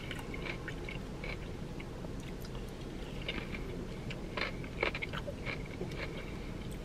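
A man chewing a mouthful of cauliflower-broccoli salad, with many short, irregular mouth clicks over a low steady hum.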